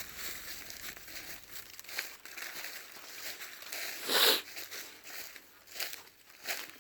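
Slow, irregular footsteps crunching and rustling through dry leaf litter and twigs, with one louder crunch about four seconds in.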